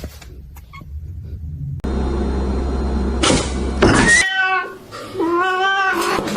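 A domestic cat meowing twice: a short call a little past four seconds in, then a longer one that rises and falls, just after a brief rush of noise.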